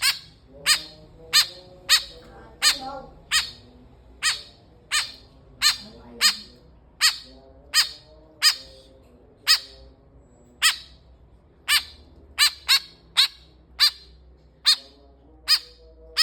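Young white-breasted woodswallow (kekep) giving sharp, short begging calls, repeated steadily about one and a half times a second while it is being fed.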